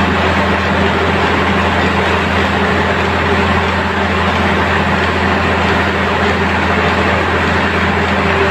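Ship's engine running with a steady low drone and a constant rushing noise over it.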